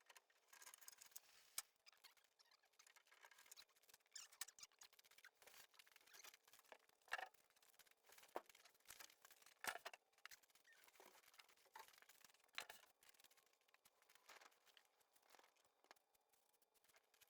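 Near silence with faint, scattered clicks and short rustles, over a faint steady hum.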